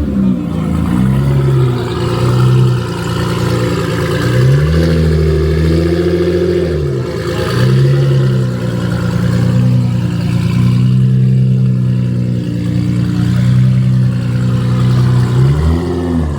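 Cammed Corvette's LS V8 running and being revved as it pulls in, its pitch rising and falling several times over a lumpy low rumble.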